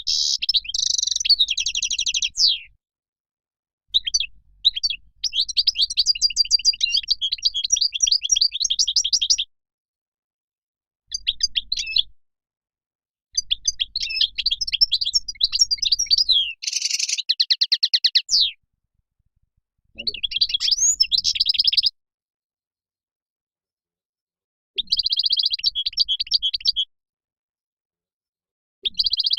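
European goldfinch song: about seven phrases of rapid, high chirping notes, each lasting one to five seconds, with dead-silent gaps between them.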